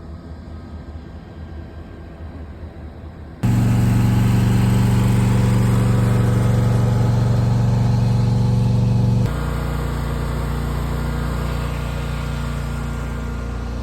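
Truck engine running at a steady idle. A fainter low hum suddenly gives way to loud, close engine sound a few seconds in, which drops to a lower, still steady level about nine seconds in.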